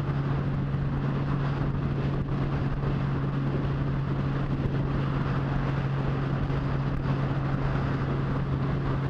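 Motorcycle engine running at a steady cruising speed, a constant low hum that does not change pitch, with wind noise rushing over the microphone.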